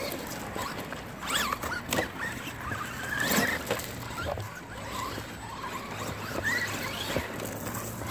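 Brushless electric motors of Traxxas Rustler VXL RC trucks whining in short revs that rise and fall in pitch as the trucks drive through mud.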